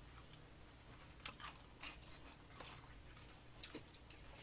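Faint chewing of fried chicken, with a few small, sharp crunches about one to four seconds in.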